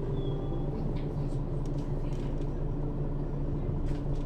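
Mercedes-Benz Citaro city bus heard from inside above the second axle, engine and drivetrain running with a steady low drone at an even pace, with light interior rattles and a brief thin squeal just after the start.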